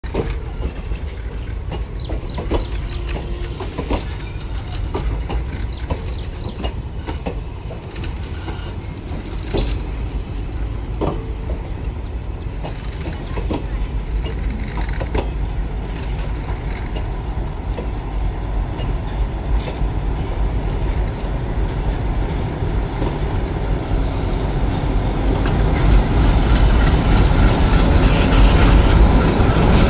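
A passenger train's coaches rolling past, their wheels clicking over the rail joints above a steady low rumble. Over the last few seconds the rumble grows louder as the twin ALCO WDG3A diesel locomotives come alongside.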